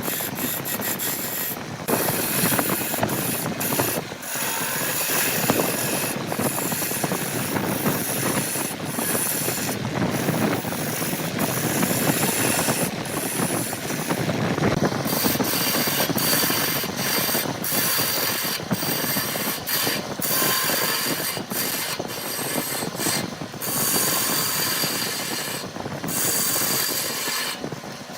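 Woodworking tools working wood: continuous mechanical scraping, rasping and clatter, broken by many brief dropouts.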